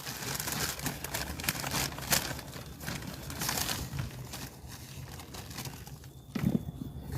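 Rustling and crackling of garden soil and compost being handled, a dense run of small crackles, with a duller thump about six seconds in.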